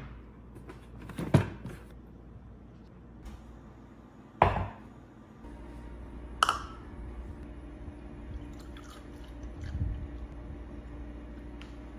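Kitchen handling sounds: a few separate sharp knocks and clinks of utensils or dishes, with a steady low hum starting about halfway through.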